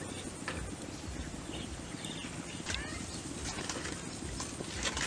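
Birds calling in the background, a few short chirps over a steady outdoor hum, with scattered light clicks and rustles, more of them near the end.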